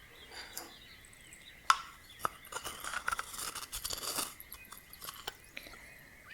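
Crisp crackling and clicking, with one sharp click a little under two seconds in and a dense run of crackles in the middle, over a faint steady high tone.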